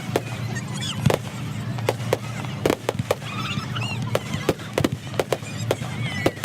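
Fireworks going off: many sharp bangs and crackles at irregular intervals, some in quick clusters, with higher wavering squeals between them.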